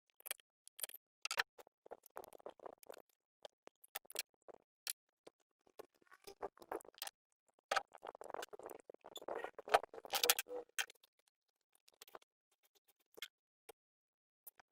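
Irregular clicks and clinks of hand tools and metal engine parts being handled, with stretches of scraping and rustling, the busiest just before halfway.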